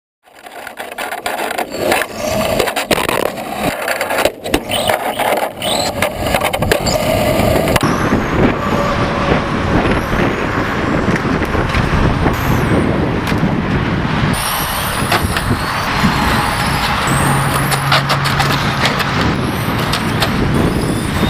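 Radio-controlled cars running, with high motor whines rising and falling, tyre and track noise, and scattered knocks and clicks. The sound changes abruptly a few times.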